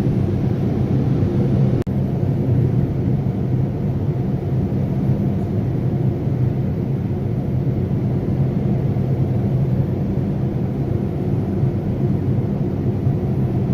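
Steady low rumble of a Boeing 787-9's cabin in flight, engine and airflow noise, with a brief break about two seconds in.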